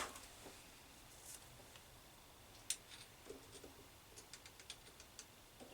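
Near silence with a few faint small clicks: one sharp click near the middle, then a quick run of light ticks near the end.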